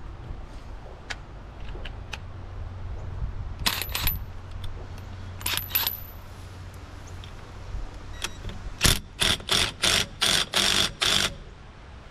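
Metal hand tools clinking and knocking, then near the end a run of about seven quick rasping strokes, roughly three a second, on metal.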